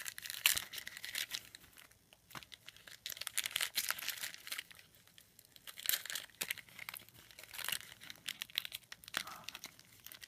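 Plastic foil wrapper of a Bowman football card pack being torn and crinkled open in irregular bursts of crackling: a stubborn pack that didn't want to come open.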